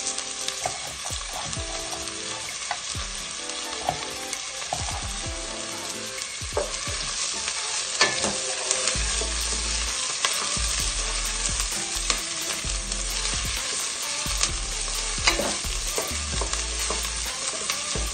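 Chopped onion, garlic and ginger sizzling in hot oil in a stainless steel stockpot while a wooden spoon stirs them, knocking against the pot now and then with short sharp clicks.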